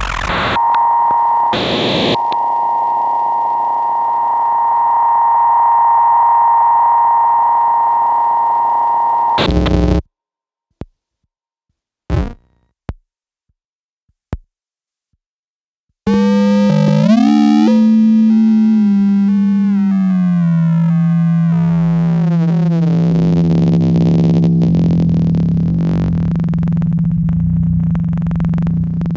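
Experimental electronic music from small modular synthesizers (Bastl Kastle and Korg Volca Modular): a held tone with a noise wash that cuts off abruptly about ten seconds in. A few seconds of silence broken by isolated clicks follow, then a low drone enters with a cascade of falling pitch glides over it.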